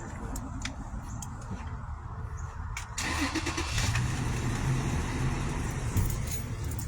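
A car engine comes in suddenly about three seconds in and runs on with a steady low hum.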